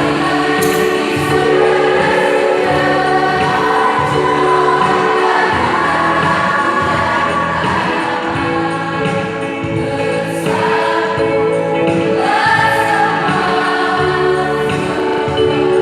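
Choir singing a song in sustained, blended chords.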